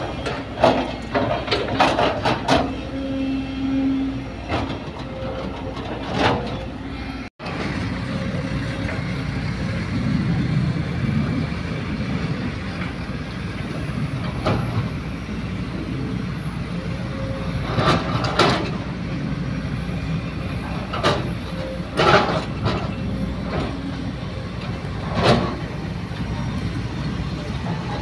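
Heavy diesel machinery running steadily while soil is loaded, from an excavator and dump truck, with sharp knocks and clanks every few seconds.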